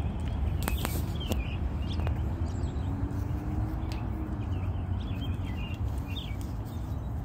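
Small birds chirping in short, repeated calls over a steady low outdoor rumble, with a few sharp clicks in the first two seconds.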